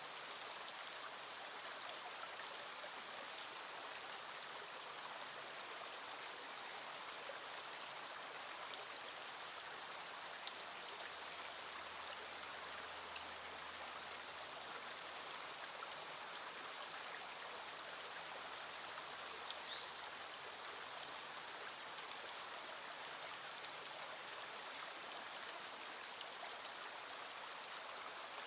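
Small stream flowing steadily, an even rushing of water with a few faint ticks now and then.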